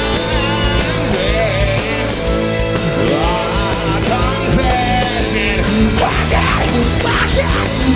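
Live rock band playing loud, heavy distorted guitar, bass and drums, with a wavering lead vocal line over it.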